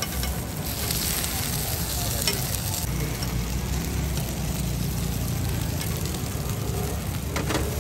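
Water-fried buns sizzling in oil in a large flat iron pan. The sizzle is loudest from about a second in until about three seconds in, while a metal spatula and tongs scrape and turn the buns. A few metal clicks come near the end, over a steady low hum.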